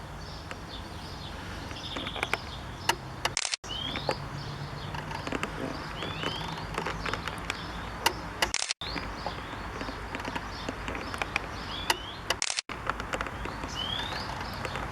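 Garden birds singing: short rising chirps and twitters repeated every second or two over a steady low background hum. The sound cuts out completely for an instant three times.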